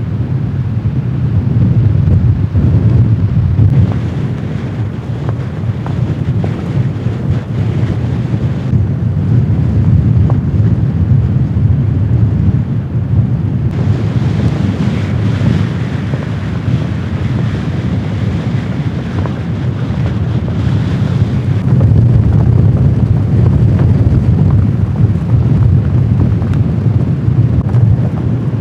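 Strong blizzard wind gusting and buffeting the microphone with a deep, continuous rumble; about halfway through a stronger gust adds a hiss for several seconds.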